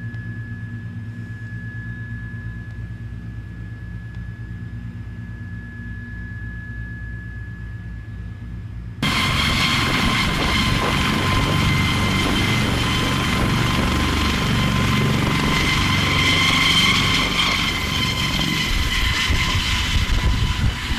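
Aircraft engine noise: a steady low drone with a thin whine, which jumps abruptly about nine seconds in to a louder, harsher rush with steady whining tones that runs on.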